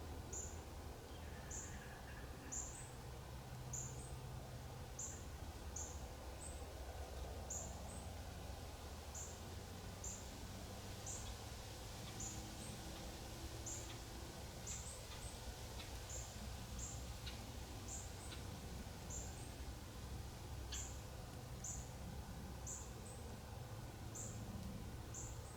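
A small bird's short, high-pitched chirps, repeating about once every second, over a steady low rumble.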